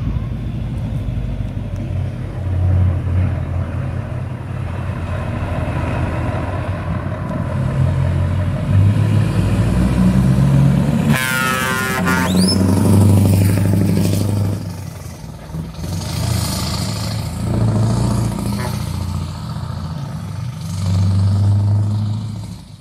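Scania R580 truck's V8 engine running through an open exhaust pipe, a deep rumble that rises and falls with the revs. A sudden loud noise cuts in about eleven seconds in.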